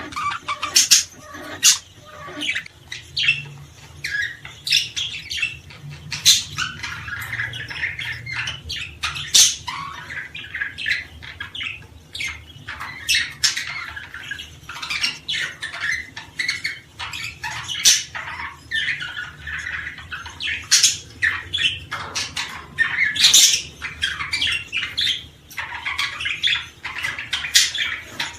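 Many small birds chirping and calling at once: sharp, high calls and twittering with no pause, over a faint steady low hum.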